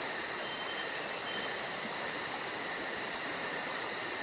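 Insect chorus of crickets: a steady high trill, with a very high chirp pulsing about five times a second over it.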